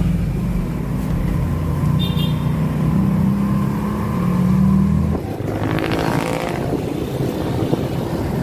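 Engine and road noise of a vehicle on the move. The hum rises slightly, then drops off about five seconds in, and a louder rush passes around six seconds.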